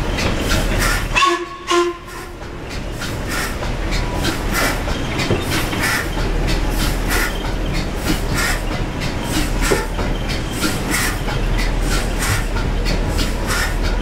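Paddle steamer's steam engine running with a steady, even rhythmic beat of about two strokes a second, over a low hum. There is a brief pitched sound about a second in.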